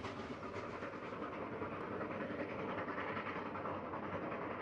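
A train running along rails: a steady rushing noise with a faint rhythmic clatter.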